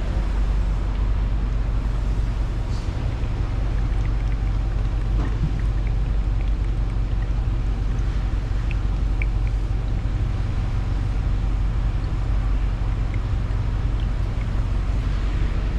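A vehicle engine idling: a steady low rumble with a few faint clicks over it.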